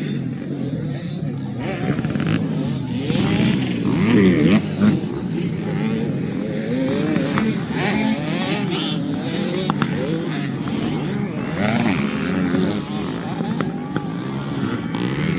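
Several 85cc motocross bikes racing, their engines revving up and down over and over as they accelerate, shift and back off, the pitches of different bikes overlapping.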